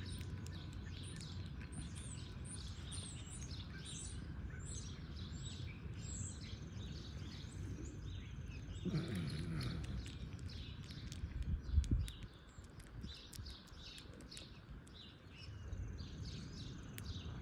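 Small birds chirping over and over in the background over a low, steady outdoor rumble, with a brief murmur about nine seconds in and a low bump near twelve seconds.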